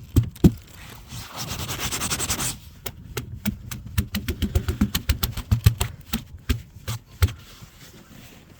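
Ice being broken: two sharp cracks, a grating rush of ice about a second in, then a quick irregular run of crisp cracks and crunches.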